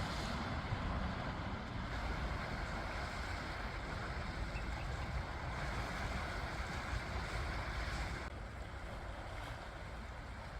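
Sea waves washing onto a beach with wind buffeting the microphone: a steady rush with a heavy low rumble, easing slightly about eight seconds in.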